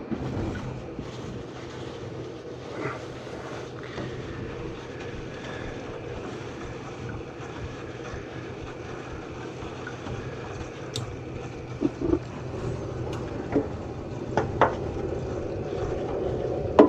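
Steady hiss of water rushing through a furnace humidifier's water-feed orifice, over a low steady hum. The orifice is reamed out too big, so the water blows too hard. A few light clicks and taps come near the end.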